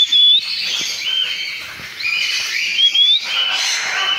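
Caged aviary birds chirping and whistling: a continuous chatter of high chirps with about three clear whistled notes that rise in pitch.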